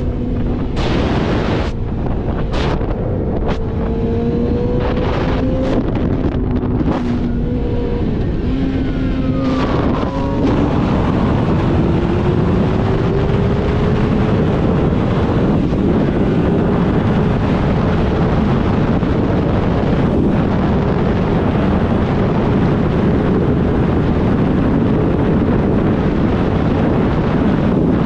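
Motorcycle engine under way with heavy wind rushing over the microphone. The engine note changes pitch in short steps in the first ten seconds, then climbs slowly and holds steady at speed.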